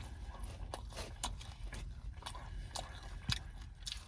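A person chewing and biting into a calzone, with irregular crisp mouth clicks over a low steady rumble.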